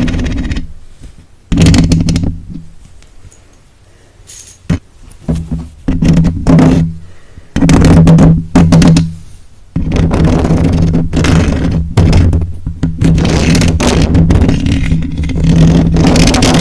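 Close-miked ASMR handling: small objects scratched and rubbed right against the microphone. The sound comes in irregular loud scraping bursts with a steady low hum, broken by short pauses, and grows nearly continuous over the last several seconds.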